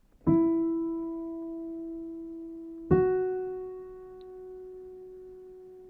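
Two single keyboard piano notes played one after the other, E then the F sharp a whole step above, each struck and left to ring and fade: a major second played as a melodic interval.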